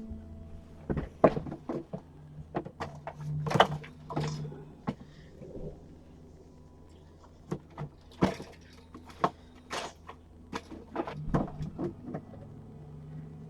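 Irregular sharp clicks, taps and knocks of small hard objects being handled and set down, in two busy stretches near the start and later on, over a steady low hum.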